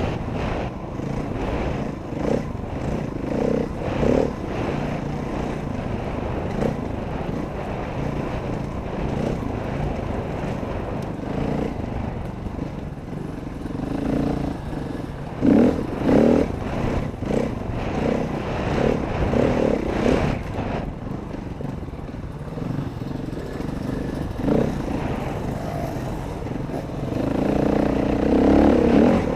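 Dirt bike engine revving up and down as it is ridden, over wind noise, with louder surges about halfway through and again near the end.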